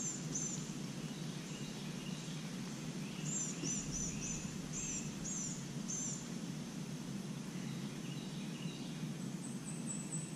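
Songbirds singing short phrases of quick, high, repeated notes at intervals, over a steady low outdoor background noise.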